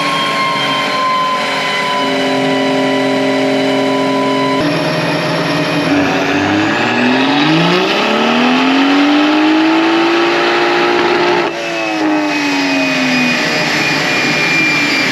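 BMW M140i's turbocharged 3.0-litre straight-six running on a chassis dyno: a steady note, then a pull that sends the revs climbing from about six seconds in. It holds high until a sudden lift-off about eleven and a half seconds in, after which the revs fall away.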